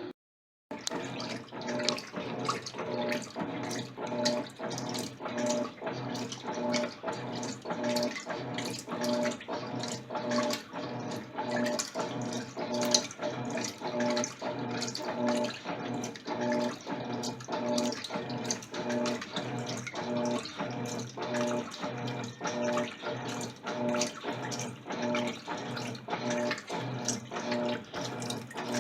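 Electrolux LTC10 top-loading washing machine agitating a load of jeans: water sloshes in an even rhythm, about four strokes every three seconds, over a steady motor hum.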